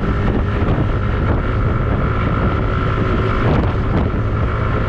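Steady low rumble of a ferry's engines under way, with a faint steady hum on top.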